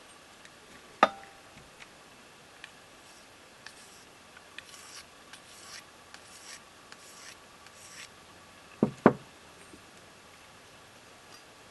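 Knife blade stroked across a small coticule sharpening stone: a run of about seven short, high scraping strokes in the middle. A sharp knock about a second in and two quick knocks near the end, with faint ticks between.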